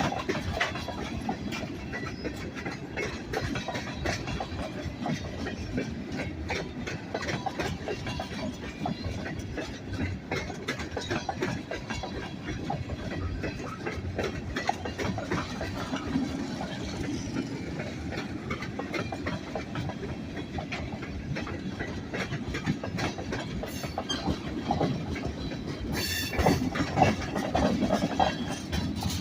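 Railroad cars rolling past, steel wheels clicking over rail joints in a steady rumble, with a brief high-pitched sound near the end.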